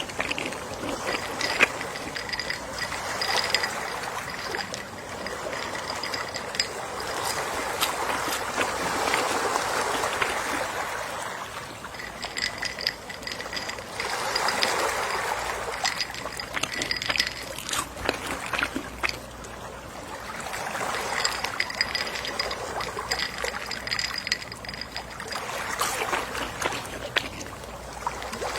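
Gentle ocean waves washing onto a shore, the wash swelling and falling away every five or six seconds. A faint high-pitched pulsing chirp comes and goes in stretches.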